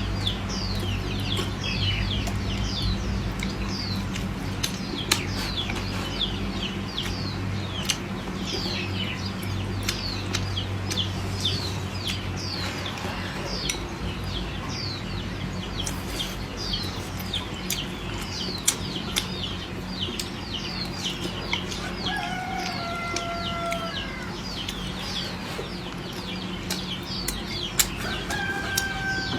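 Chickens: constant high, falling cheeps, a few each second, with two drawn-out hen calls near the end. A low steady hum fades out about halfway through.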